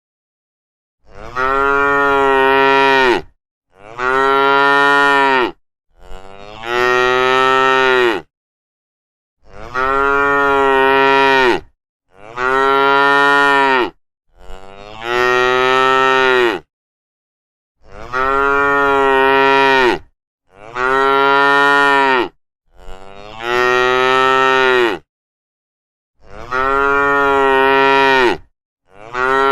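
Cattle mooing: about ten long moos of around two seconds each, one after another with short gaps between them.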